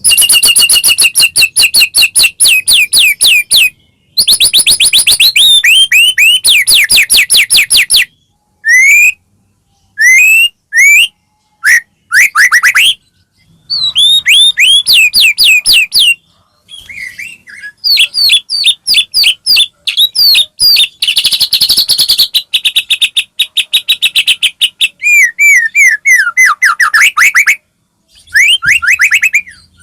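White-rumped shama singing loud, fast phrases of rapid sweeping whistles and chatter, broken by short pauses.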